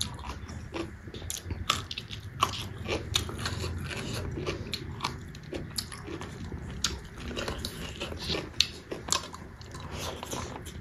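A person chewing and crunching a mouthful of rice with stir-fried fermented bamboo shoot (soibum), with many irregular sharp crunches and mouth clicks.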